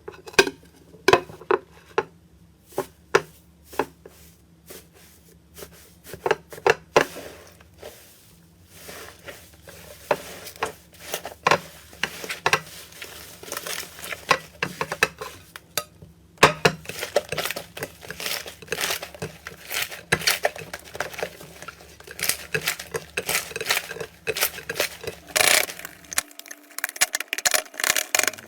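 Slime being handled and pressed for ASMR: a run of sharp clicks, pops and crackles, sparse at first and much denser after a short break about sixteen seconds in.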